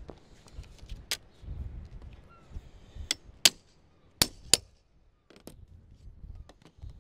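Sharp, irregular knocks and taps of hand tools on the lead flashing job, about half a dozen, the loudest a little past the middle. A faint low rumble lies underneath.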